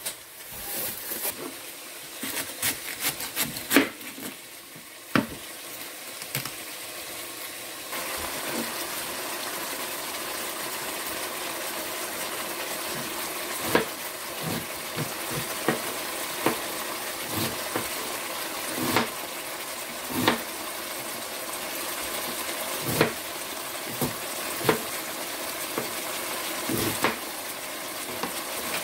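Wooden spoon knocking and scraping against a pot as chopped tomatoes are stirred. From about eight seconds in, a steady sizzle as shredded cabbage cooks with the tomatoes in hot oil, with the spoon tapping the pot every second or two.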